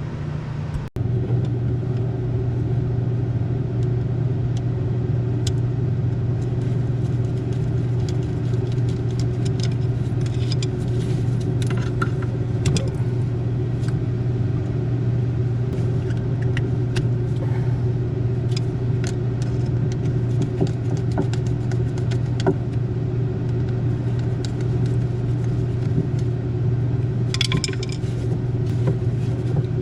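A steady low machine hum with light metallic clinks and taps of tools being handled over it.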